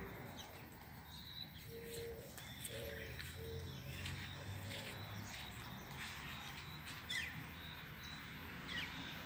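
Birds chirping and calling in short, scattered notes, over a faint low rumble.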